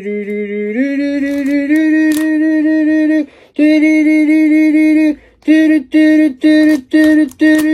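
Air squealing out through a stretched balloon neck as a loud, steady tone. It steps up in pitch about a second in, breaks off briefly after about three seconds, then comes back as about five short squeals, roughly two a second, as the neck is pinched and let go.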